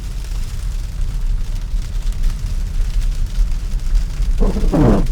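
Steady low rumble of road and tyre noise inside a Tesla's cabin, driving on a snow-packed road. A short murmur of a man's voice comes in near the end.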